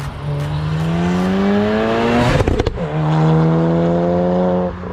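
Tuned Audi S1 Sportback's 2.0 TFSI turbocharged four-cylinder with a Scorpion exhaust accelerating hard past, its note rising for about two seconds. About two and a half seconds in the pitch drops sharply with a burst of exhaust pops and crackles, from its pops-and-bangs tune, and the engine pulls on until another brief crackle and dip near the end.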